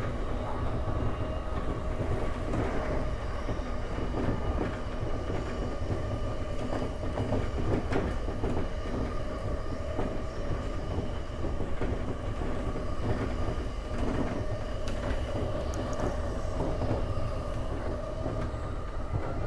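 JR E231-1000 series electric commuter train running along the line, heard from inside the front car: a steady low rumble of wheels on rail with a few steady whining tones over it and scattered faint clicks.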